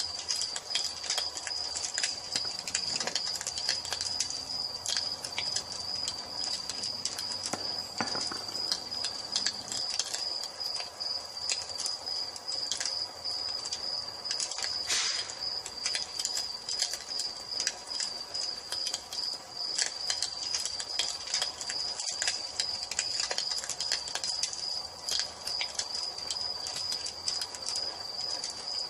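Wood fire crackling with scattered pops, a few louder than the rest, over crickets chirping steadily in a high, pulsing trill.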